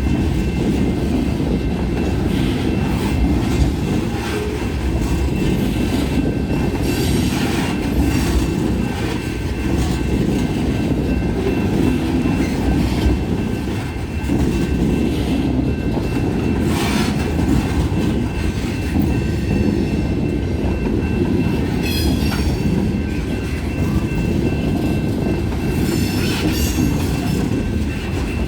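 Freight train cars rolling past in a steady loud rumble, with sharp clanks now and then and a faint, steady high-pitched wheel squeal.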